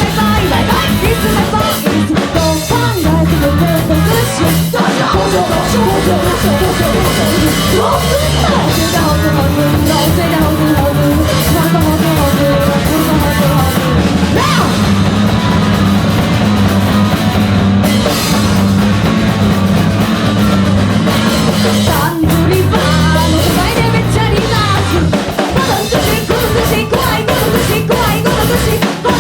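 Live punk rock band playing loudly: pounding drum kit, bass and distorted guitar, with vocals.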